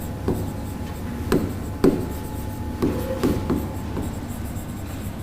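Handwriting: a series of short scratching strokes, roughly a second apart, as points are written out by hand.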